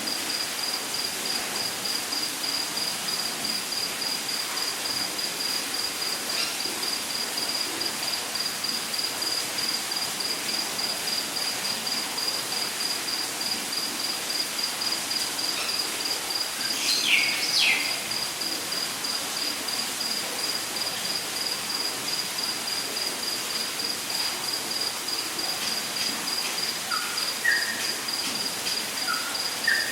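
Rainforest ambience: an insect trilling steadily in rapid, high-pitched pulses over a constant hiss. A bird calls with quick falling notes around the middle, and a few short chirps come near the end.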